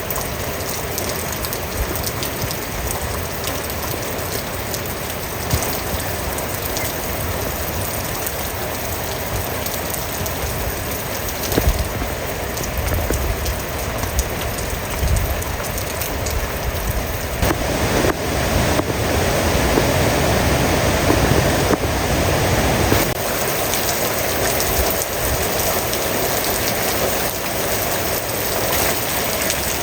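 Heavy rain falling steadily, with scattered sharper drop hits. It grows a little louder and heavier for several seconds past the middle.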